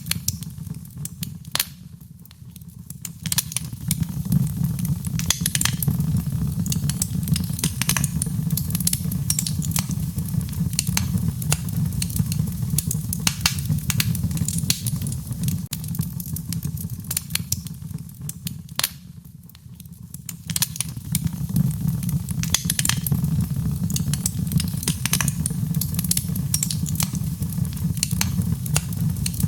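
Wood fire burning in a fireplace: frequent sharp crackles and pops over a steady low rumble of the flames. Twice the sound thins out briefly before building back up.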